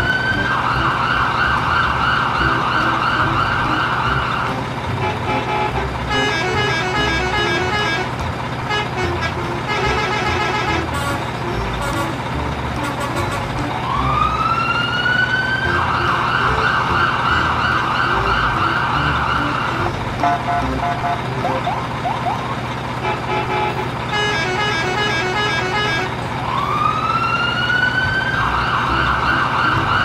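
Electronic siren sound effect looping about every 13 seconds: a wail rises and then holds on a wavering tone for a few seconds, followed by a run of short electronic beeping notes.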